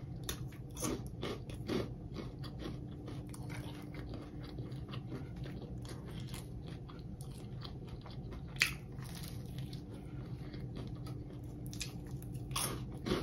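Close-miked crunchy chewing and biting of fried hot Cheetos-crusted food: a stream of small crackles, with a sharper crunch about two-thirds of the way through and a few more bites near the end.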